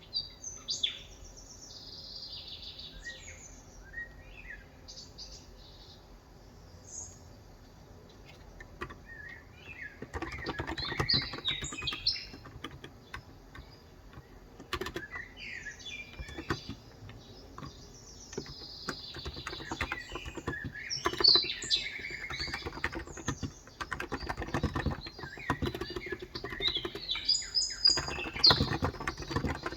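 Typing on a Cox Endeavor electro-capacitive (Topre-style) 35g tenkeyless keyboard, in bursts of keystrokes that fill most of the second half, while birds chirp throughout.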